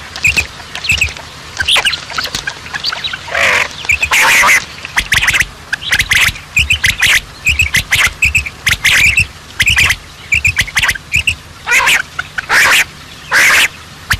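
Birds calling: a steady stream of short chirps, broken by several louder, harsh squawks.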